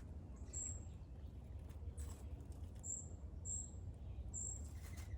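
A small bird giving short, very high chirps, four or five spread over a few seconds, over a steady low rumble.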